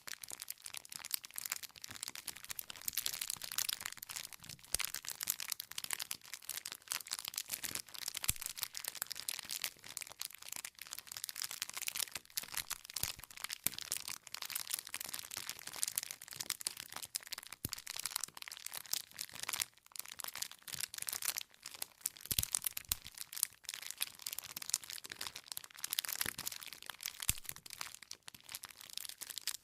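Wood fire crackling: a constant stream of small pops and snaps from burning firewood over a soft hiss, with an occasional louder crack.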